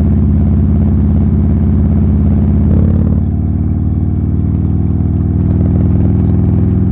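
Buell Lightning XB12S's air-cooled V-twin, fitted with a D&D aftermarket exhaust, running loud and steady under way, with its uneven offbeat firing. The level dips slightly about three seconds in.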